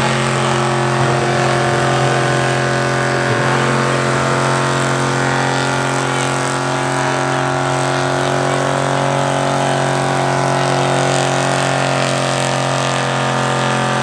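Gas pulling truck's engine running loud and hard at a steady, unchanging pitch.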